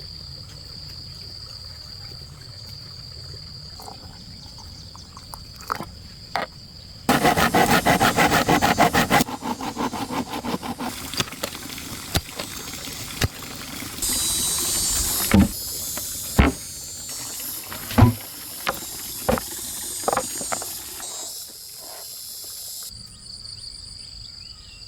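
Steady high drone of insects. About 7 s in, a loud rapid rattling lasts about two seconds. Around the middle comes a brief hiss, then several sharp, separate knocks of outdoor work.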